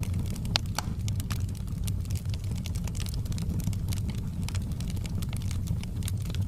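Wood fire in a fireplace crackling, with frequent small pops over a steady low rumble; one sharper pop about half a second in.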